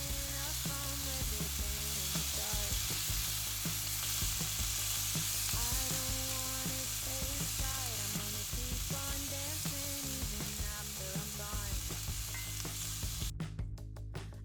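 Food frying in hot oil, a steady sizzling hiss that cuts off abruptly about a second before the end.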